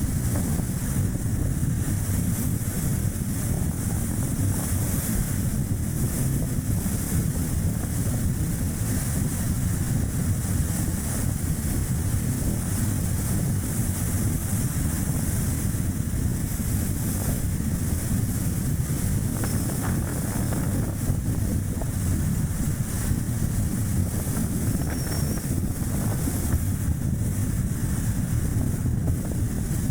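Strong wind rushing and buffeting over the microphone, mixed with the steady tyre and road noise of a Chevrolet Spark light car being driven.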